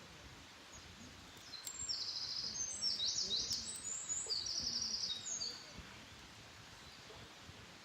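Wild songbird singing one high, rapid phrase of trills and quick falling notes, starting about a second and a half in and lasting about four seconds, over faint outdoor background noise.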